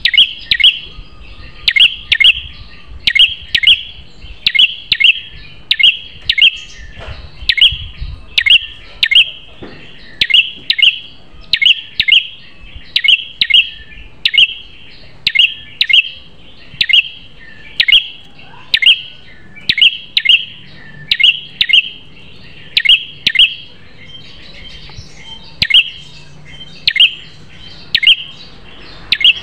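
Prenjak kepala merah (red-headed prenjak) songbird calling: a fast, steady series of sharp, high chirps, often in close pairs, about two a second.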